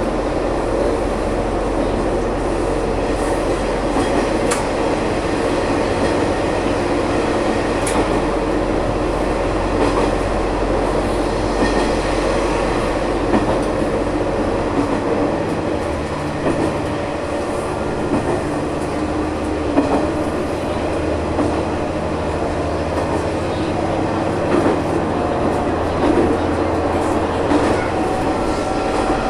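Diesel railcar running along the line, heard from the cab: a steady engine drone under wheel-on-rail noise and occasional clicks over rail joints. The low engine note changes about halfway through.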